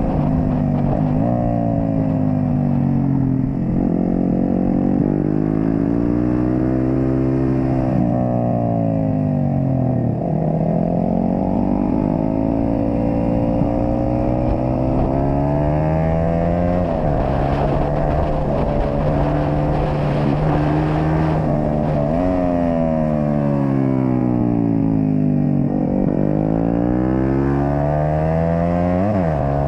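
Yamaha sport bike engine, heard from on board, revving through the gears on a race track: the pitch climbs and then drops back again and again, every few seconds, as the rider works the throttle and shifts through the corners. Wind noise runs underneath.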